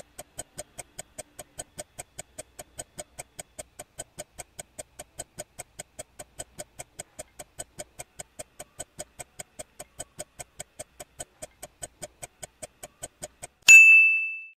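Countdown timer sound effect: a clock ticking evenly about four times a second, then one loud ringing ding near the end, which marks the reveal of the correct answer.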